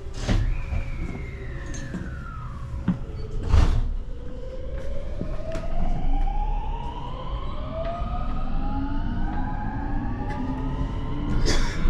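Shinkansen train's electric traction motors whining, several tones rising steadily in pitch as it accelerates from about four seconds in, over a low rumble. Earlier a tone falls in pitch, and there are three sharp knocks.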